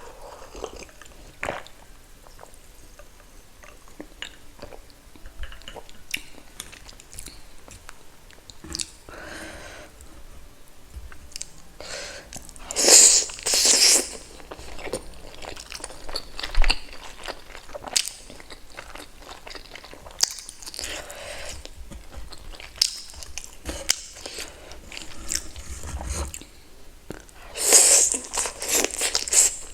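Close-miked mukbang eating sounds: a person chewing and biting food, with many small wet clicks and smacks, and louder bites or slurps about halfway through and again near the end.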